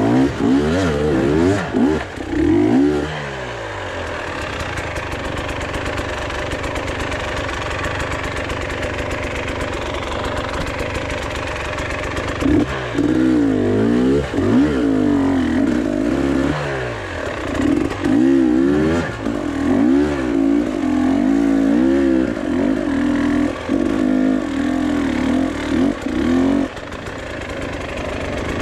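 Off-road vehicle engine revving up and down again and again, with a steadier stretch of running between the bursts of revs.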